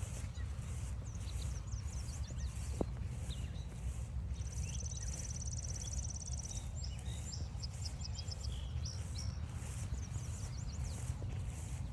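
Songbirds calling in woodland: a high, dry, rapid trill that repeats every few seconds, among scattered short chirps and whistles, over a steady low rumble.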